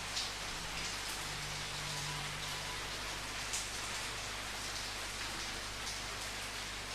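Steady rain falling, an even hiss with scattered louder drops ticking against a surface, one sharper drop about three and a half seconds in.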